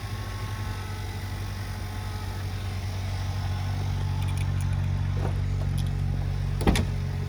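Buick Cascada's 1.6-litre turbocharged four-cylinder engine idling steadily just after being remote-started. A short knock sounds near the end.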